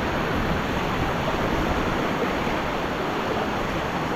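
Steady rushing of a small mountain river's flowing water.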